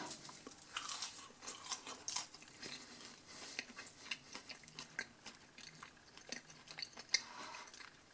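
A person chewing a mouthful of breaded onion ring: irregular crunches and small mouth clicks.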